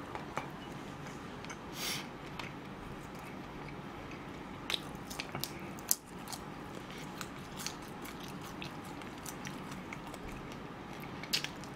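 Close-miked mouth sounds of a person chewing food: scattered small wet clicks and a few crunches over a steady background hiss.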